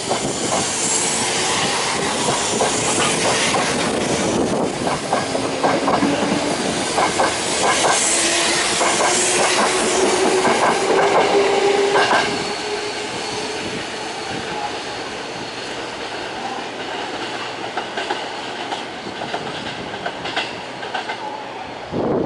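Electric train pulling out of a station: wheels clack over the rail joints and a motor whine rises slowly in pitch as it gathers speed. After about twelve seconds it fades to a lower, steadier rumble.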